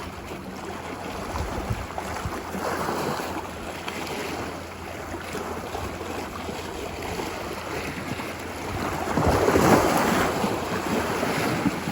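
Ocean waves washing ashore on a beach, a steady wash of surf that swells as waves break, the biggest surge coming about nine seconds in.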